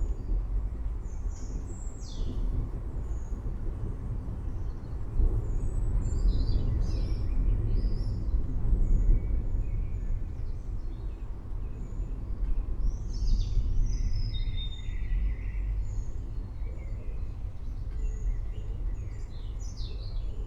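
Birds chirping and calling in short, quick notes over a steady low rumble of distant thunder.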